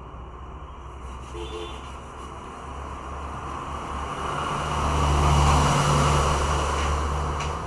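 A road vehicle passing by: a low engine hum with road noise that swells to a peak about five seconds in, then fades.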